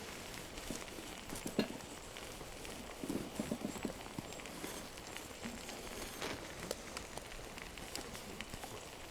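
Campfire crackling under a steady hiss of food cooking over the flames, with scattered sharp pops and a short run of soft knocks about three seconds in.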